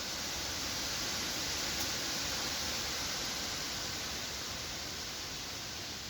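Wind blowing through forest trees: a steady hiss of rustling leaves that swells gently, peaks about two seconds in, then slowly eases off.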